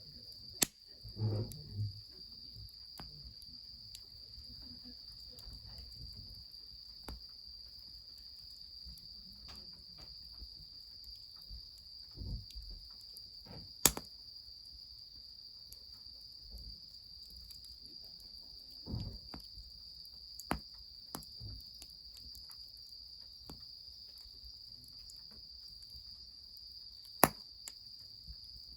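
Steady high-pitched trilling of crickets, with three sharp cracks spread through it, the loudest sounds present, and a few soft low rumbles.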